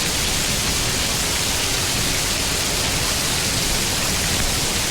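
Waterfall pouring close by, a steady, even rush of falling water heard from right behind the falling sheet.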